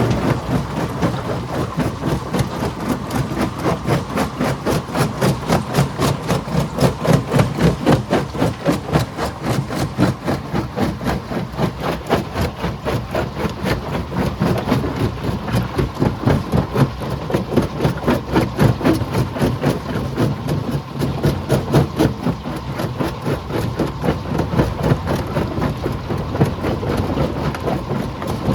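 Stone crusher machine running, a loud mechanical grinding with a fast, even pounding pulse of a few beats a second.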